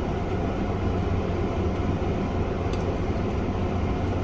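Steady low hum and hiss of background room noise, like a running fan or air conditioner, with a faint click near the end.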